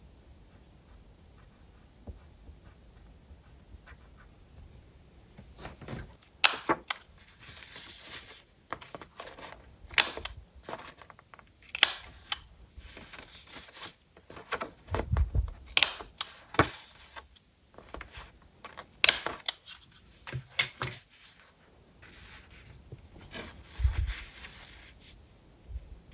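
Paper being handled and rustled, with a string of sharp clicks and taps and a couple of dull bumps.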